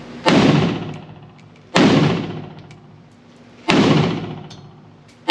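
Pioneer Arms Hellpup AK pistol in 7.62x39 firing single shots at a slow, even pace, roughly one every one and a half to two seconds: three shots, and a fourth right at the end, each followed by a long ringing decay.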